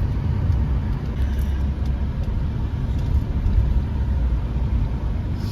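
Road noise heard from inside a moving vehicle: a steady low rumble of engine and tyres with a hiss of wind and road above it.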